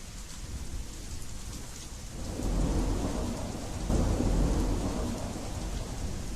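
Steady rain falling, with two low rolls of thunder rumbling up about two seconds in and again about four seconds in.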